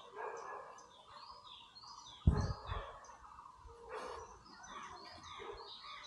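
Birds chirping in woodland: many short, falling chirps overlapping throughout. A loud low thump comes about two seconds in.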